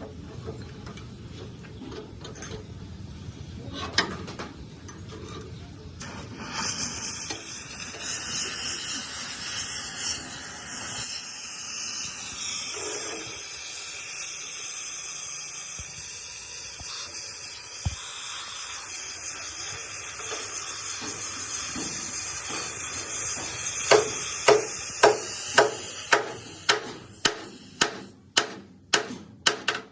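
A loud steady hiss starts about six seconds in and runs for about twenty seconds. Near the end a hammer strikes metal in quick even blows, about two a second.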